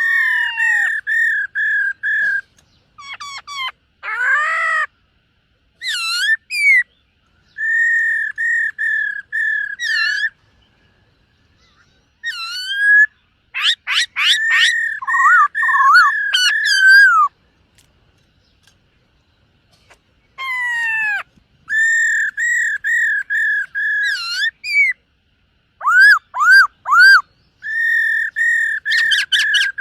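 Black-throated laughingthrush singing loud, clear whistled phrases: runs of four to six evenly repeated notes mixed with quick rising and falling whistles, in bursts of a few seconds with short pauses between.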